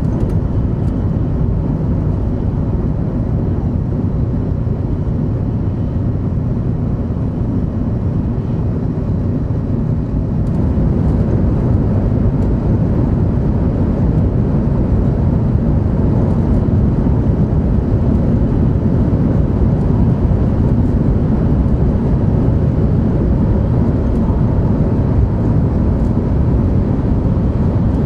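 Running noise of a 500 Series Shinkansen at speed heard from inside the passenger cabin: a steady, loud low rumble that grows louder about ten seconds in.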